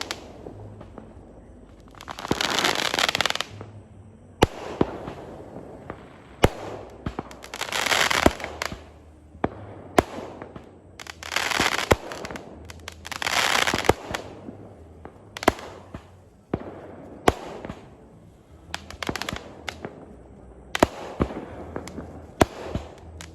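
Fireworks going off: single sharp bangs every second or two, mixed with several crackling bursts that each last about a second.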